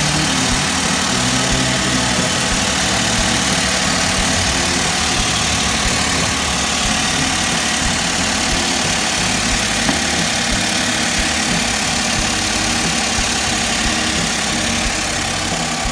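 Car engine idling steadily under an even hiss, left running to warm up so trapped air can be bled from the cooling system after a water pump replacement.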